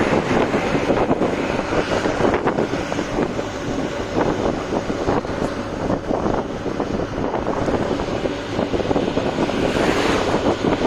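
Truck driving at speed: steady road and engine noise mixed with wind buffeting the microphone.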